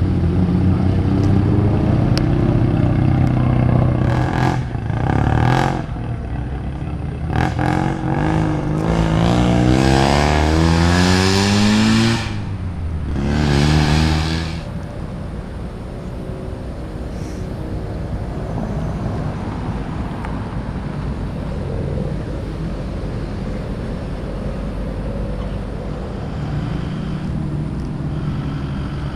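Car engine revving as a car pulls away: short throttle blips about four and seven seconds in, a long rising rev up to about twelve seconds, one more blip, then a steadier, quieter engine rumble for the rest.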